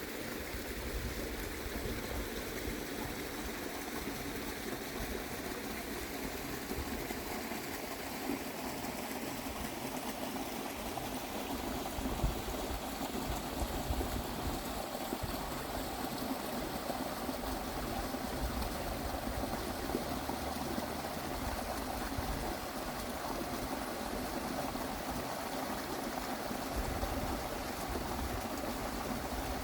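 Water stream flowing steadily.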